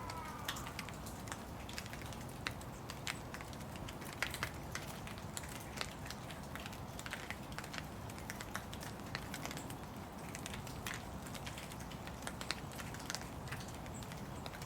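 Rain falling, with many irregular close drops tapping one by one over a steady low hiss.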